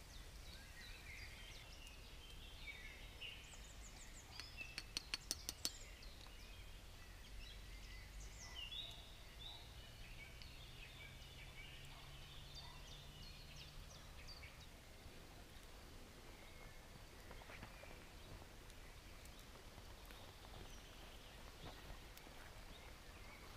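Faint birdsong: many small birds chirping and calling on and off, with a brief run of rapid clicks about five seconds in.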